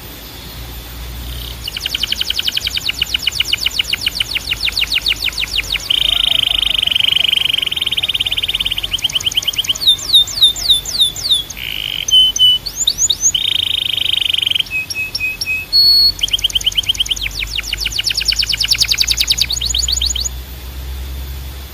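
Domestic canary singing a long song: fast repeated trill notes, then steady buzzing rolls. Around halfway comes a run of quick downward-sweeping whistled notes, and near the end another long rapid trill.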